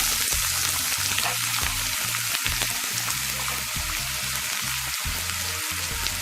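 Chopped onion frying in hot coconut oil in a pan: a steady sizzle that eases slowly after the onion goes in.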